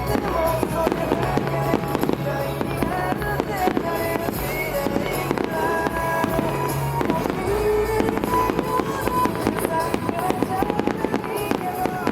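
Fireworks bursting and crackling in quick succession over a song with steady held notes and a melody.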